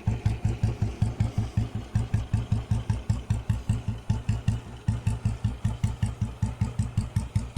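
Royal Enfield single-cylinder four-stroke motorcycle engine idling with its characteristic thump, an even beat of about six pulses a second.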